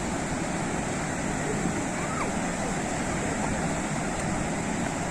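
Sea waves washing steadily onto the shore, an even rushing surf with no single breaker standing out.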